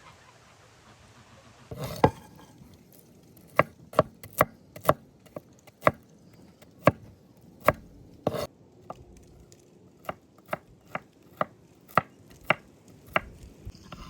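Knife chopping food on a cutting board: single sharp strokes at an uneven pace, roughly one or two a second, starting about two seconds in.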